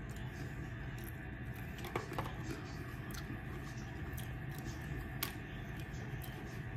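A man chewing a crisp tostada shell with his mouth closed, giving a few faint sharp crunches and clicks. A steady low electrical hum runs underneath.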